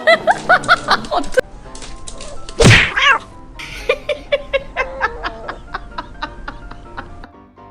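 Comedic sound effects over music: a run of quick chirpy pitched blips, a loud slap about three seconds in, then an even run of short plucked ticks, about five a second.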